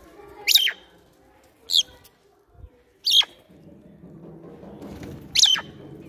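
A bird giving four short, sharp calls, each sweeping down in pitch, spaced one to two seconds apart.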